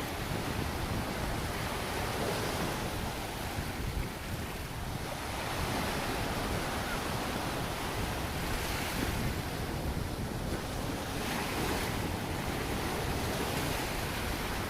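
Ocean waves breaking on a beach, the surf swelling into a wash every few seconds over a continuous hiss, with wind rumbling on the microphone.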